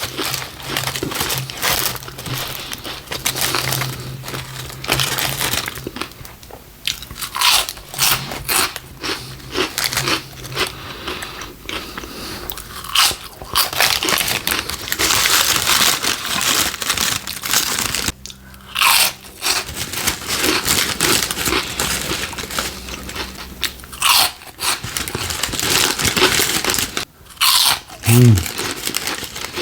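Close-miked crunching and chewing of Taco Bell cinnamon twists: repeated crisp, irregular bites and chews.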